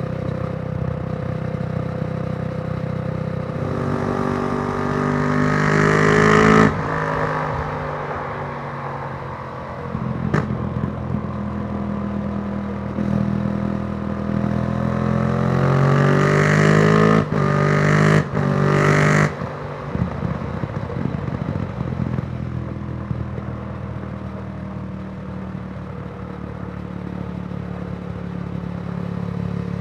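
Yamaha YZF-R1's crossplane inline-four running through a Yoshimura exhaust on the road, with the uneven, twin-like beat typical of the crossplane crank. It revs up twice under acceleration, each time dropping sharply as it shifts up, the second time in three quick upshifts, then settles to steady cruising.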